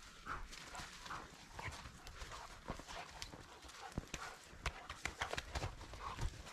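Footsteps crunching in snow, in an irregular run of short crunches with scattered sharper knocks.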